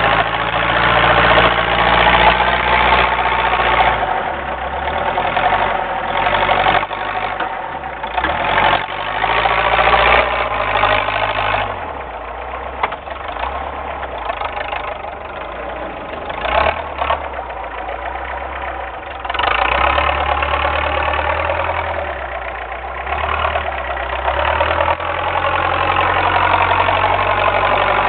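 Homemade doodlebug tractor's engine running while plowing wet, heavy snow, its speed rising and falling repeatedly, quieter for several seconds in the middle.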